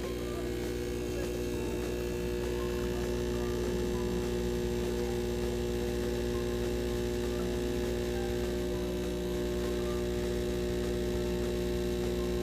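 Briel two-group espresso machine's pump humming steadily under pressure while brewing a double espresso shot.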